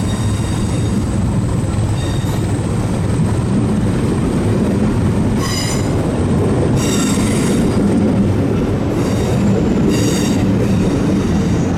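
A train running with a steady low rumble, its wheels squealing in short, high bursts several times in the second half.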